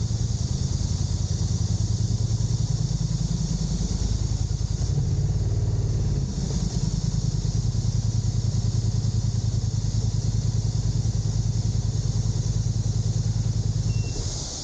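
An engine running steadily with a fast, even pulse, cutting off shortly before the end. A steady high-pitched hiss, like insects, goes on underneath and continues after the engine stops.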